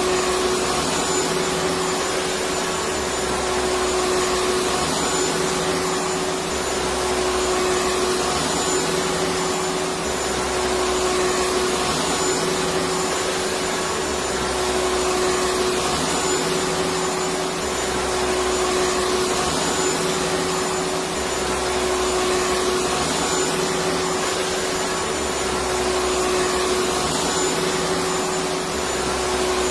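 Electric vacuum cleaner running steadily, a continuous rushing noise with a steady motor hum, played as a soothing white-noise sound for putting a baby to sleep. A faint low pulsing repeats every few seconds.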